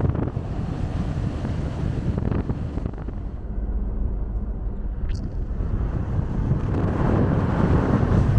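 Steady low rumbling noise, growing louder in the last second or so.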